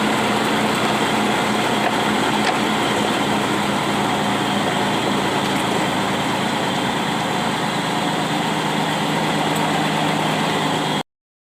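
Steady engine drone and road noise of a vehicle driving, with an even hiss that fits driving through heavy rain. It cuts off abruptly near the end.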